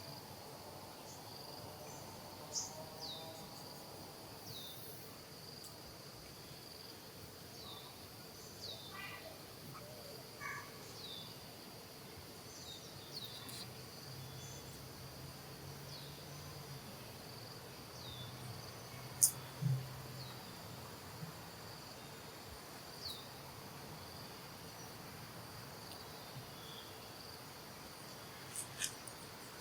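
Outdoor ambience of insects, a steady high drone like crickets, with a string of short, high, falling chirps every second or two. A sharp click stands out about two-thirds of the way through.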